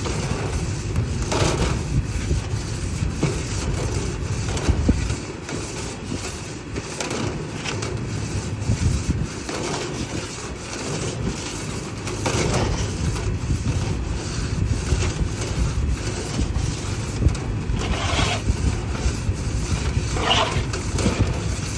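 Irregular scraping and crunching as lint and debris are raked out of a dryer vent, over a low rumble.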